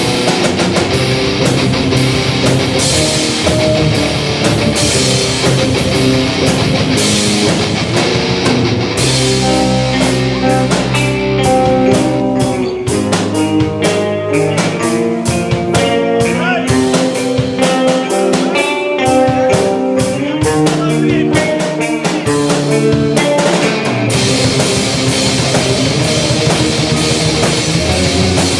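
Rock music with electric guitar and a drum kit. About nine seconds in the drums thin out under a melodic passage, and the full band comes back near the end.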